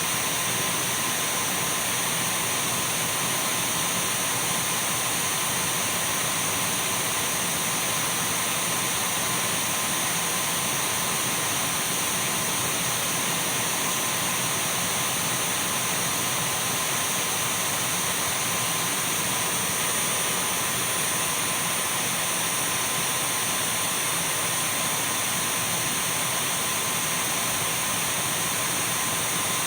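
Dyson V12 cordless stick vacuum running steadily: a constant rush of air with thin, high, steady whine tones from the motor.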